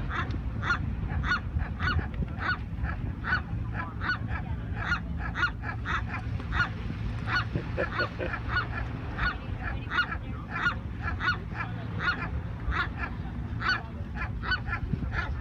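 Seagull calling over and over in short, clucking, chicken-like notes, about two to three a second without a break.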